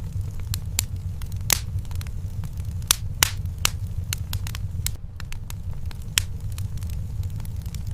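Wood fire in a fireplace crackling, with irregular sharp pops, a few of them louder, over a steady low rumble.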